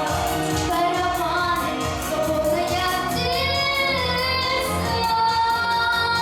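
A young female voice singing a pop song over a backing track with a steady drum beat and bass, holding a long high note with vibrato about halfway through.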